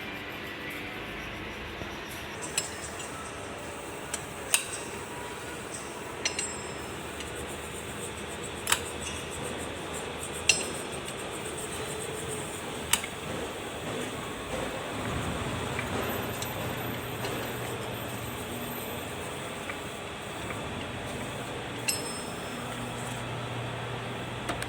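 Hand tools knocking and clinking against the tractor's metal axle parts: sharp, separate metallic clinks at irregular intervals a few seconds apart, over steady background noise.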